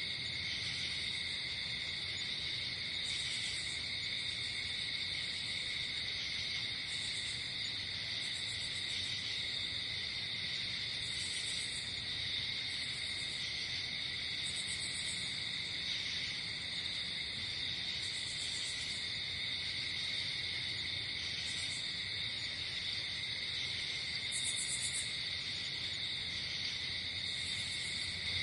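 Night insect chorus of crickets trilling steadily, with short higher-pitched chirps repeating every second or two over it.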